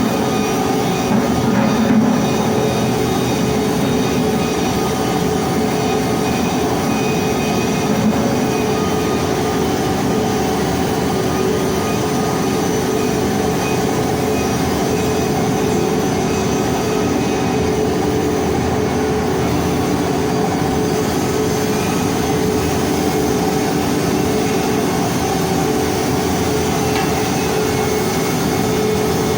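Arc welding while hardfacing a pipe: a continuous hiss and crackle over a constant machine hum, at an even level throughout.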